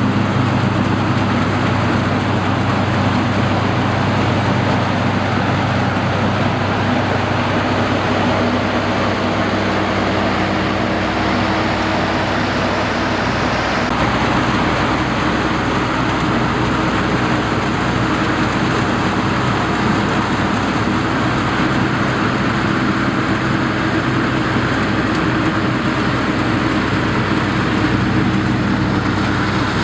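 Rice combine harvester running steadily: a continuous engine drone with a broad rushing noise over it, shifting slightly about halfway through.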